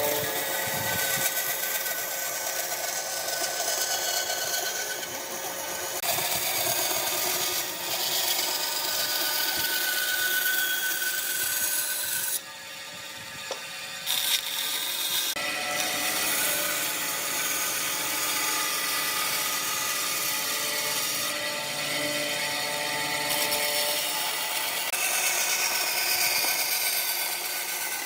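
Electric power tool with a steady motor whine working on wood, its sound changing abruptly several times.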